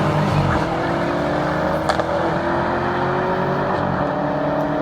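Race car engines accelerating hard during a race, their pitch climbing slowly and dropping once near the end.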